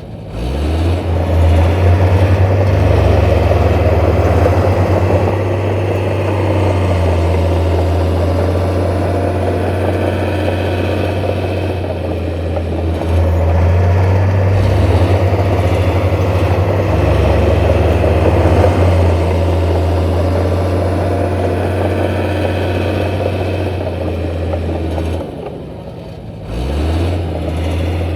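Heavy diesel engine of earthmoving machinery running hard, revving back up just after the start, then dropping off and revving up again near the end.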